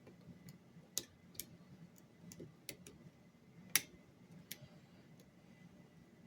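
Scattered small metallic clicks and ticks of a lock pick working inside a lock, about six separate clicks at uneven intervals, the sharpest a little past halfway.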